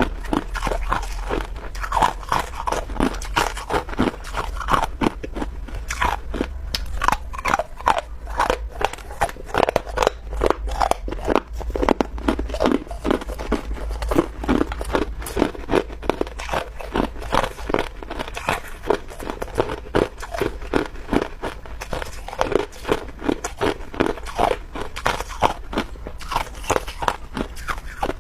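Chunks of clear ice being bitten and chewed: a fast, unbroken run of loud crunches and cracks.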